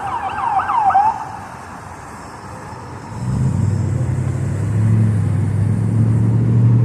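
Police car siren yelping in rapid rising-and-falling sweeps, cutting off about a second in. From about three seconds in, a vehicle engine's low steady hum comes in and grows louder.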